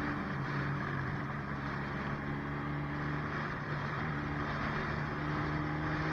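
Motorcycle engine running at a steady speed, an even hum with a rushing noise over it.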